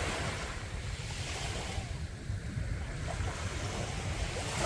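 Sea waves breaking and washing up the shore, swelling near the start and again at the end, with wind rumbling on the microphone.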